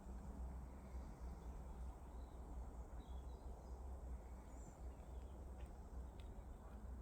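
Faint outdoor ambience on a bog trail: a steady low rumble with a few brief, faint bird chirps in the middle.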